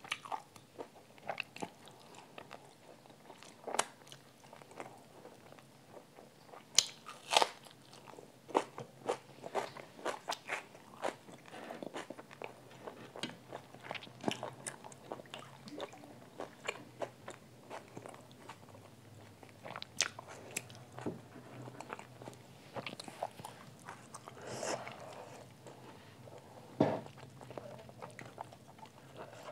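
Eating sounds: a person chewing and biting mouthfuls of rice and spinach-coated hariyali chicken, eaten by hand. Irregular sharp smacks and clicks come from the mouth.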